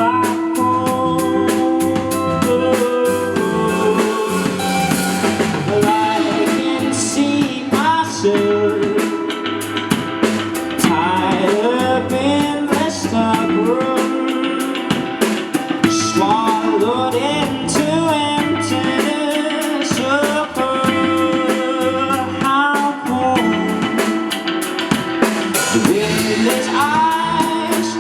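Live rock band playing: a drum kit keeps a steady beat under guitar and a melodic lead line.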